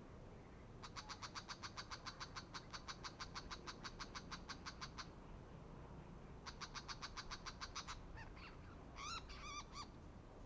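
Brown shrike giving its harsh chattering call: a rapid run of rasping notes, about seven a second, lasting some four seconds, then a shorter run and a few squeakier, varied notes near the end.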